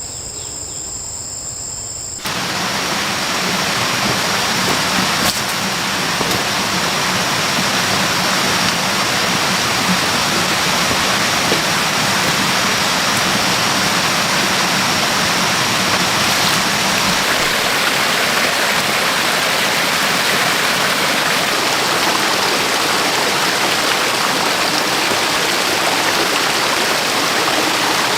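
Insects giving a steady high drone for about two seconds, then a sudden change to a loud, even rush of water that carries on steadily.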